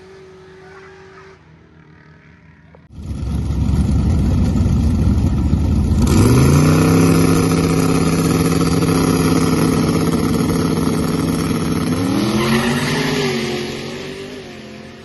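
Drag race car run at full throttle: a sudden loud start about three seconds in, then the engine note rises and holds steady, rises again briefly near the end, and fades away.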